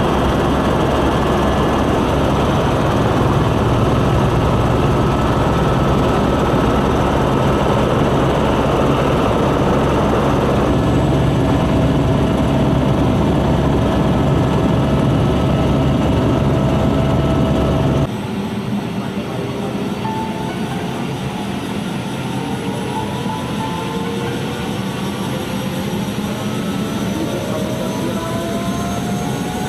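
Steady roar of a flooding river for about eighteen seconds, then an abrupt cut to a quieter scene in which a motor's pitch slowly rises.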